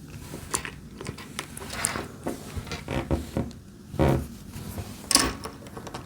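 Plastic Lego pieces clicking and rattling as they are handled and pressed together: a string of small clicks, with louder bursts about four and five seconds in.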